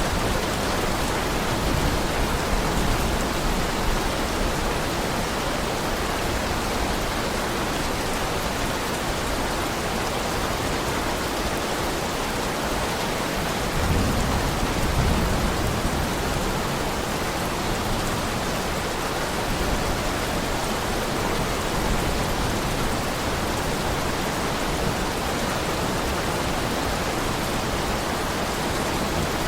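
Heavy rain falling in a steady, dense hiss, with a brief low rumble swelling about halfway through.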